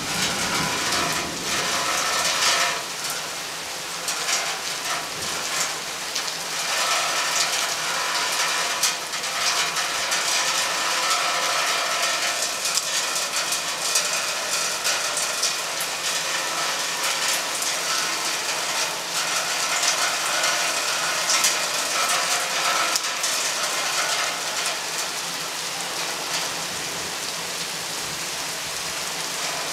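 Steady rain from a thunderstorm falling close by, heard as a dense hiss of countless individual drop ticks.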